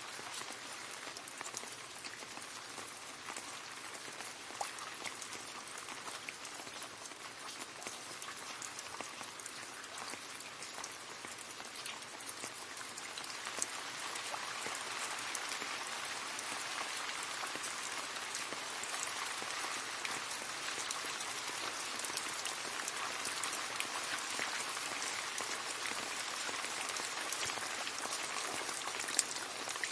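Rain falling into a puddle: a steady patter of drops splashing on water, with many separate drip ticks, growing louder about halfway through.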